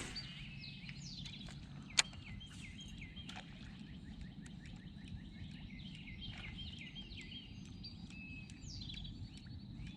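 Several birds chirping and singing in short repeated notes over a low steady background hum, with one sharp click about two seconds in.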